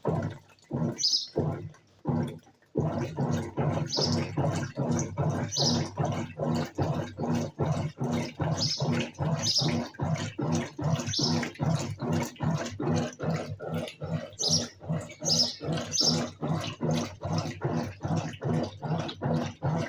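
Colormaq Eco Max 14 kg top-load washing machine in its wash stage: the agitator motor hums and churns the water in a fast, regular rhythm of strokes, a few each second. After a few scattered strokes it settles into the steady rhythm about three seconds in.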